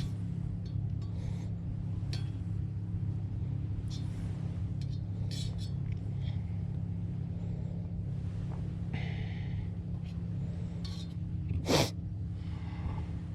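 Campfire crackling as meat cooks over it, with scattered small crackles and one loud sharp pop near the end, over a steady low hum.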